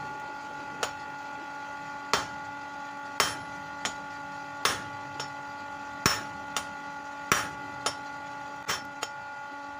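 Hammer striking metal, about a dozen sharp blows at an uneven pace, stronger and lighter strokes alternating.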